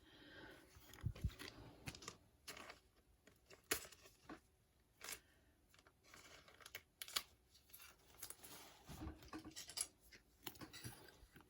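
Faint handling of trading cards and pack wrappers: scattered soft rustles and short sharp clicks, with a few louder snaps about four, five and seven seconds in.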